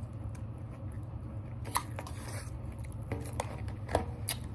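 A person chewing a mouthful of food close to the microphone, with several short wet mouth clicks and smacks, over a low steady hum.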